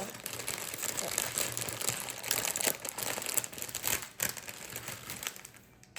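Crinkling plastic packaging being handled, with many small clicks and rustles, thinning out near the end.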